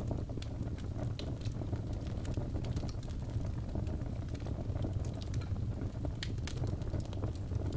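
Wood burning in a fireplace: a steady low rumble of flames with irregular sharp crackles and pops from the burning wood.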